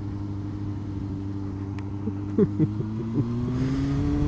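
A Yamaha Fazer 1000's inline-four engine running steadily at low revs through a roundabout, then climbing in revs about three seconds in as the bike accelerates away. There are a couple of brief thumps around the middle.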